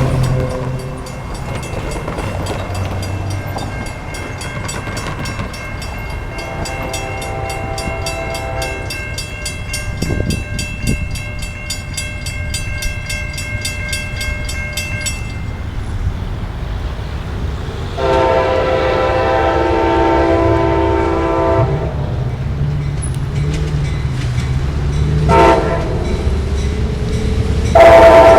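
Amtrak passenger train's locomotive horn sounding the grade-crossing pattern over the steady rumble of the train: two long blasts, a short one, then another long one near the end. Before the third blast, a crossing bell rings rapidly and stops about halfway through.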